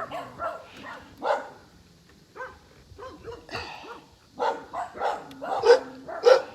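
Dog barking repeatedly in short separate barks, a few at first and then a quicker run of louder barks in the last two seconds.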